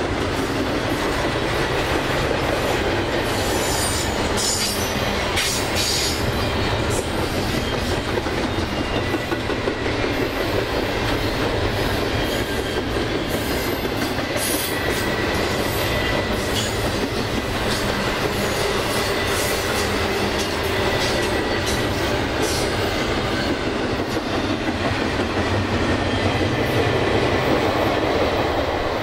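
A Norfolk Southern double-stack container freight and a VRE commuter train rolling past side by side: a steady loud rumble of steel wheels on rail. Sharp clicks of wheels over rail joints come in the first few seconds, and a faint thin wheel squeal comes and goes.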